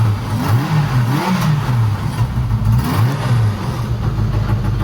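Kawasaki motorcycle engine revved in short throttle blips, its pitch rising and falling several times before settling back to a steady idle near the end. It is running with freshly synchronised carburettors, smoother than before, according to the owner.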